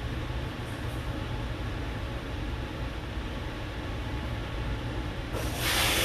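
Steady low hum and hiss of background noise, with a brief louder hiss near the end.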